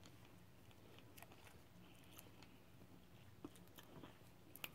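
Near silence with faint chewing of hard, powdery ramune candy: a few small scattered clicks, one a little louder near the end.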